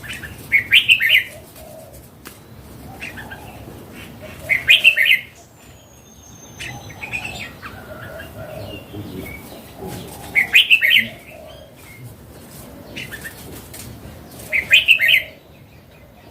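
Red-whiskered bulbul, a mature wild-caught bird, singing four short, loud, chattering song phrases a few seconds apart, with fainter calls in between.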